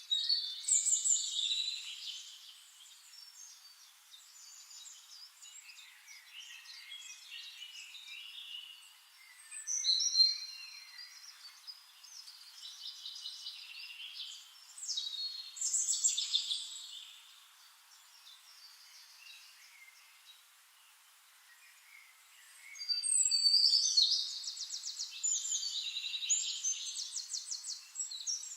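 Songbirds singing in bursts of high chirping and warbling phrases with quieter gaps between them. A longer phrase with a fast trill comes near the end.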